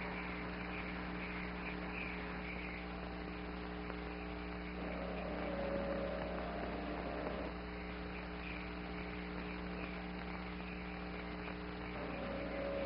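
Steady electrical mains hum on an old soundtrack, with faint held tones rising in about five seconds in and again near the end.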